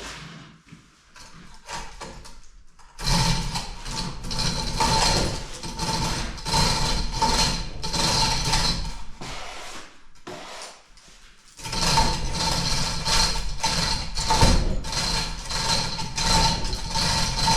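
A power tool or machine running in two spells, a steady tone under a rapid clatter, starting about three seconds in, stopping briefly around ten seconds, and starting again about two seconds later. A few scattered knocks come before it.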